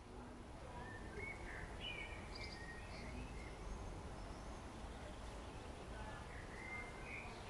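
Small birds chirping in short, scattered notes over a steady low outdoor background noise, with a cluster of calls in the first few seconds and another near the end.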